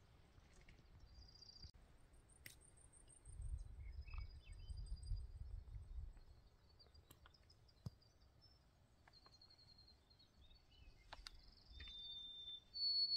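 Small songbirds calling: thin, high whistles and quick trills, with a louder clear whistle near the end. Wind rumbles on the microphone for a few seconds, starting about three seconds in.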